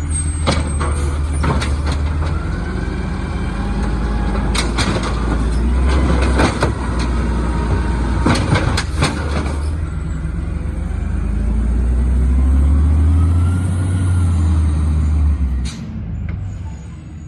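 Garbage truck engine running loud and low, its pitch rising and falling as it works, with several sharp metallic clacks in the middle. The engine sound drops off suddenly near the end.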